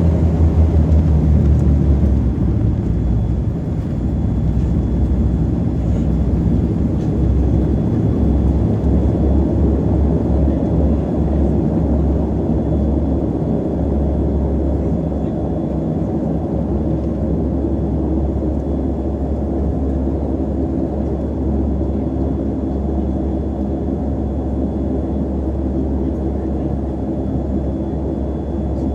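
Saab 340's twin turboprop engines running with a steady propeller drone and rumble. The strongest low hum eases off about two seconds in, then the drone holds steady.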